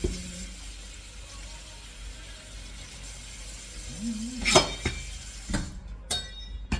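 Food frying and sizzling in a pot, with a few sharp clinks of a utensil against the pot about four seconds in. The sizzling cuts off suddenly near the end.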